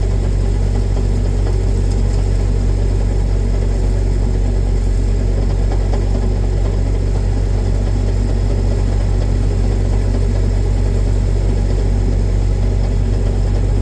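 Tractor engine running steadily, a loud low drone that holds the same note throughout.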